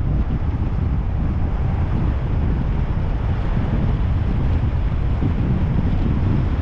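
Car driving along: a steady low rumble of engine and road noise, with wind noise on the microphone.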